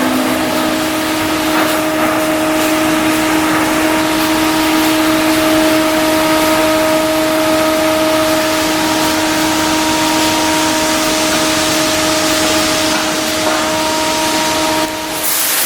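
Steady machine noise: a constant loud hiss with several held humming tones, dipping briefly near the end.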